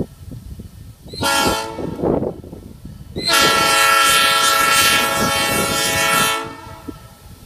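Diesel locomotive's air horn sounding a short blast, then a long blast of about three seconds, over the rumble of the passing train.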